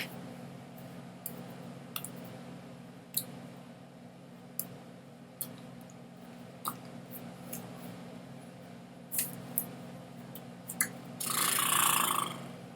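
Irregular sharp clicks, roughly one every second, over a steady low hum, with a burst of rustling noise lasting about a second near the end.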